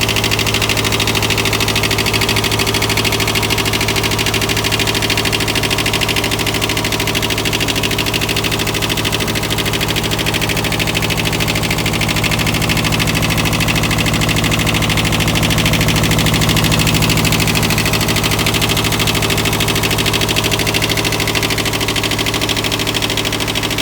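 Kubota B4200 compact tractor's diesel engine running steadily, a little louder about two-thirds of the way through.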